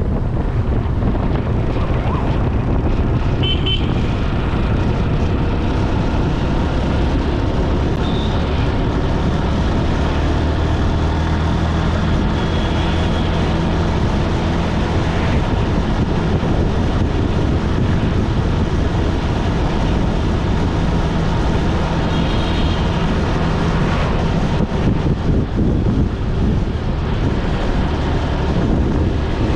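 Road noise from riding along a road: a steady rush of wind on the action camera's microphone with passing traffic, including a vehicle's engine hum through the middle. Two short horn toots come a few seconds in and again about two-thirds of the way through.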